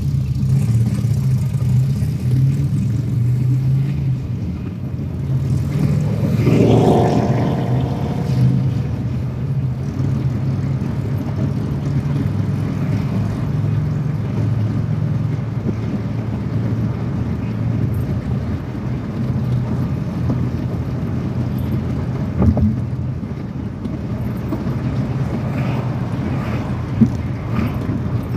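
Motorcycle engine running steadily on the move, with a brief rise in pitch about seven seconds in.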